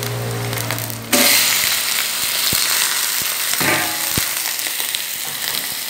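Diced boneless chicken dropped into hot oil in a karahi about a second in, setting off loud, steady sizzling over the gentler sizzle of softening onions, with a few clicks of a steel spatula against the pan.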